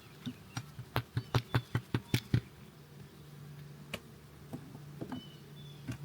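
A quick run of about ten sharp clicks as the wooden hive parts are handled, followed by the steady low hum of honey bees from the open hive.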